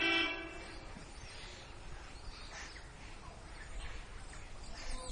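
Birds calling over a steady outdoor hiss, with a short pitched call right at the start.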